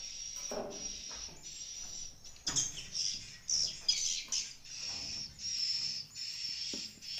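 Swiftlets twittering in a swiftlet house: a run of short, high chirps repeating about twice a second, growing louder and busier about halfway through.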